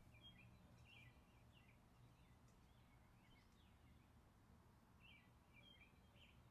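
Near silence, with faint bird chirps scattered through it.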